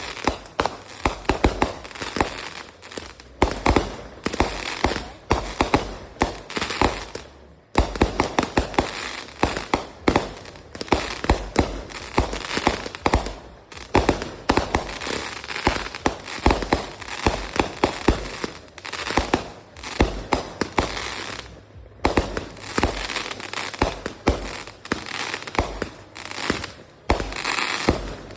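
Fireworks going off in a dense, irregular barrage of sharp bangs and crackles, several a second, with brief lulls three times.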